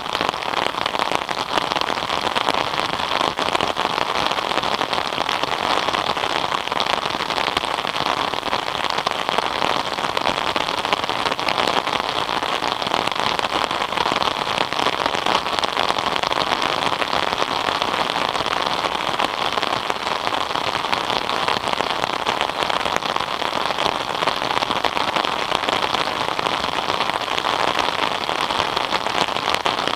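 Steady rain falling and pattering on surfaces, a dense, even hiss of countless drops.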